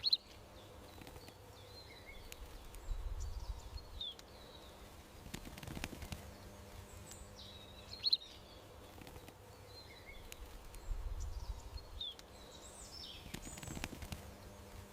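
Small birds chirping in short, high calls every few seconds over a steady outdoor background hum, with two brief stretches of low rumble.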